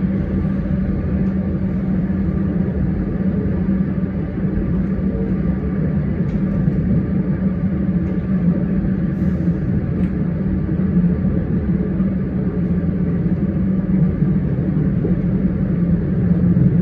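Comeng electric multiple-unit train running at steady speed, heard from inside the carriage: a continuous rumble of the train on the track with a constant low hum.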